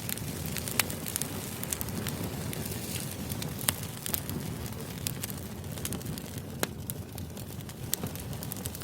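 Background ambience of steady low noise scattered with frequent sharp, irregular crackles and clicks.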